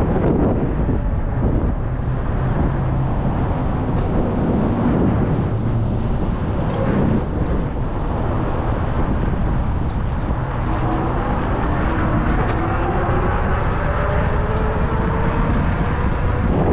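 Wind rumbling on the microphone of an e-bike under way, with a faint whine rising in pitch in the second half.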